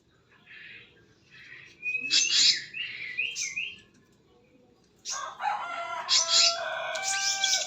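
Birds giving harsh chirps and squawks in two spells, a short one about two seconds in and a louder, longer one from about five seconds in.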